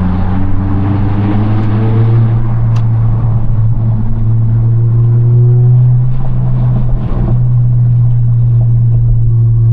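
2022 Honda Civic Si's turbocharged 1.5-litre four-cylinder engine, heard from inside the car, pulling steadily with its drone slowly rising in pitch. There is a brief dip about seven seconds in, then it carries on steady.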